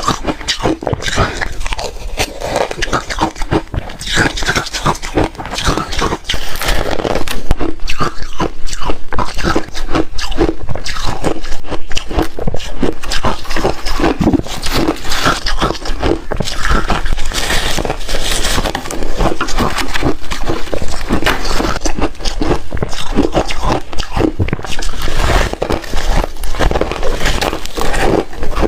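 Refrozen hard ice being bitten and chewed close to the microphone: a dense, irregular run of loud cracks and crunches, louder after the first several seconds.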